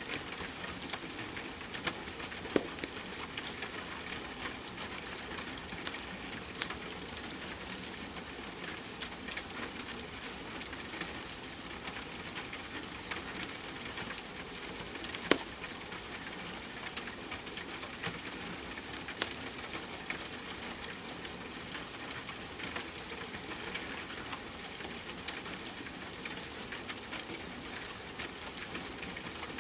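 Steady hiss of rain with the occasional sharp pop and crackle of a wood fire in a fireplace.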